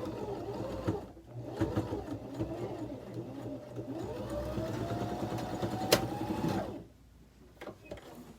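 Electric sewing machine running as it stitches a seam, with a short break about a second in. Later its motor rises in pitch as it speeds up, then stops about two-thirds of the way through, just after a sharp click.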